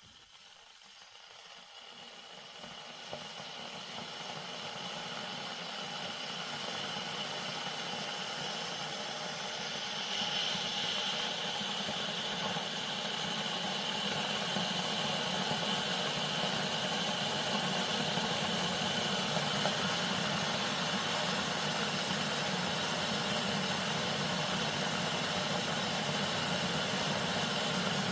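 A glass electric kettle heating water. A hiss and low hum rise out of near silence and grow steadily louder, levelling off about ten seconds in.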